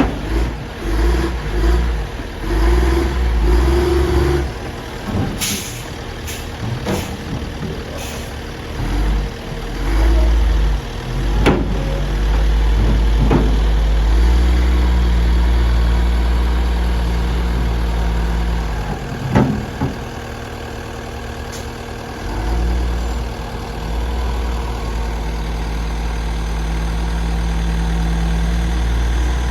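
Stewart & Stevenson M1090 dump truck's diesel engine running as the truck drives off road, its level swelling and easing. A few sharp knocks and rattles come through along the way.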